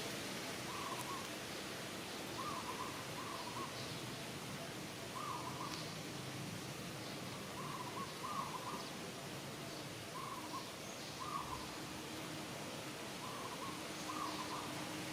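A bird calling in short notes, often in pairs, repeating every second or two over a steady background hiss.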